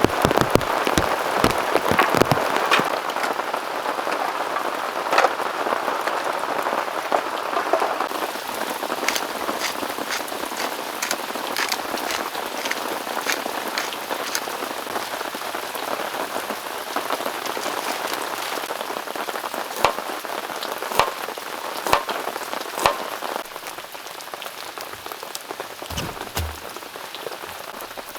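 Heavy rain falling steadily, a dense hiss with many sharp, separate drop hits; it eases slightly near the end.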